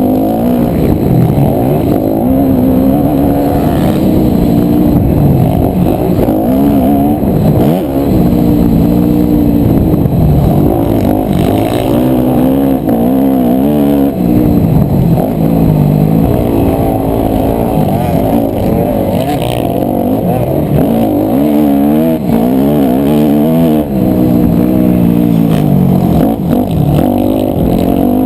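250cc four-stroke single-cylinder motocross bike engine revving hard, its pitch rising and falling again and again as the rider accelerates, shifts and backs off through the track's sections.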